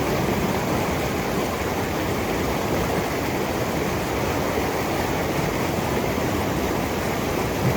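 Creek water rushing steadily, a constant full hiss with no breaks.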